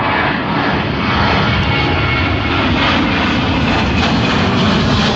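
Loud, steady noise of a jet airliner's engines at takeoff power as it rolls down the runway and climbs out.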